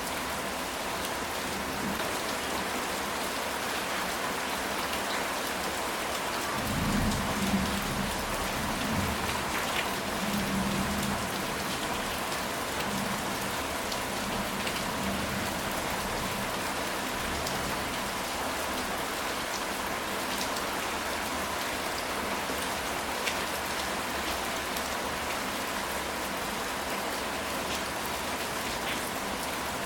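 Steady rain falling on a ceramic tile roof, with a low rumble of thunder from about seven seconds in that fades out a few seconds later.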